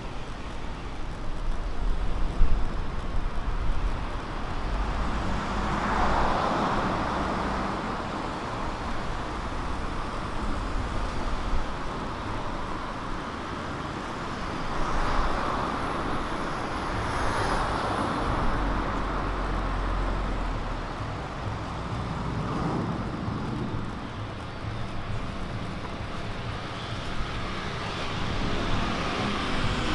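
Street traffic: cars passing one after another over a steady low rumble, with each pass swelling and fading.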